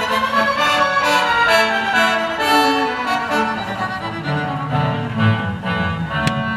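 Symphony orchestra playing, with violins and brass carrying the melody; lower strings such as cellos come in strongly about two-thirds of the way through.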